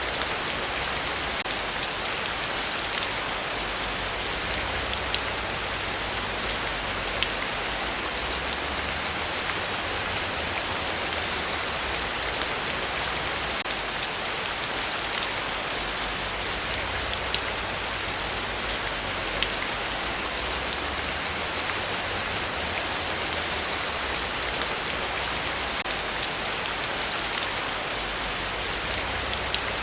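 Heavy rain falling steadily, a dense even hiss with the sharp ticks of individual drops landing close by.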